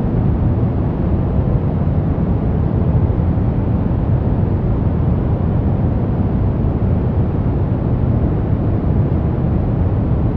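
Steady noise-generator track sold as white noise, a deep, even rush with most of its weight in the low end and no changes.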